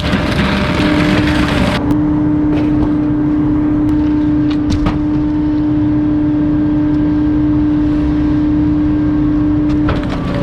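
Bulky-waste garbage truck's hydraulic compactor running with a steady humming whine over a low engine rumble. A splintering crush noise cuts off about two seconds in, and a few sharp cracks follow.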